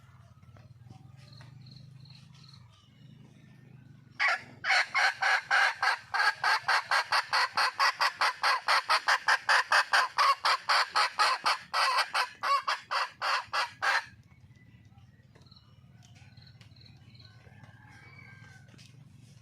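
Red junglefowl hen calling: a long run of loud, short, clipped notes, about four a second, starting about four seconds in and stopping abruptly some ten seconds later. Faint bird chirps and a low hum are heard before and after.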